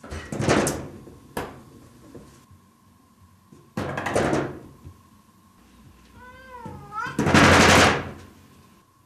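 A cat thumping a door with its hind paw to be let in: three bouts of rapid, rattling knocks, the last the loudest. A single short meow comes just before the last bout.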